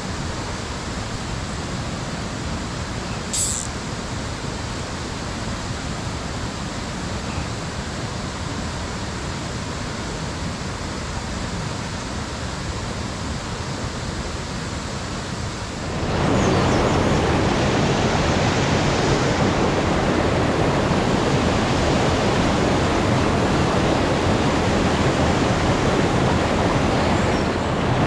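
Mountain stream water rushing steadily over rocks, becoming much louder just past the halfway point. A brief sharp click a few seconds in.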